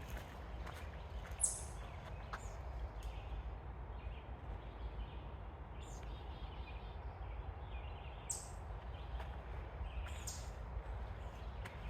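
Outdoor nature ambience: a steady low rumble with a few short, high bird chirps, one about a second and a half in and two more near the end.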